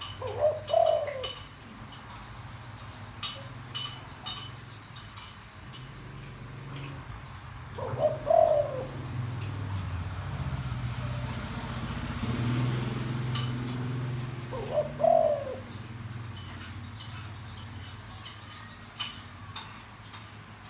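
Spotted dove cooing in a deep voice, three short coo phrases about seven seconds apart. Sharp clicks here and there and a low hum in the middle stretch accompany it.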